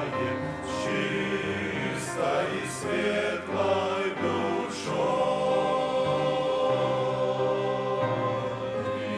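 Men's choir singing a Russian hymn in harmony. The first phrases carry sung words, then from about five seconds in the choir holds one long chord.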